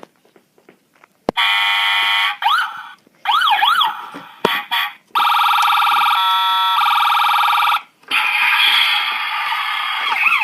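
Toy police vehicle's built-in electronic siren sounds, set off by button clicks: a held alarm tone, fast yelping sweeps, then a long steady siren tone, with more rapid up-and-down sweeps near the end.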